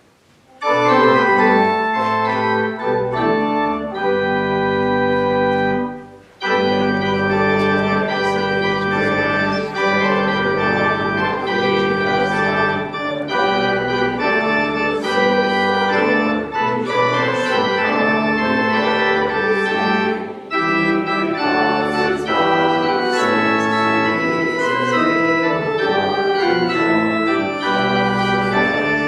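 Church organ playing a piece in sustained, held chords. It comes in under a second in, breaks off briefly about six seconds in, and then plays on.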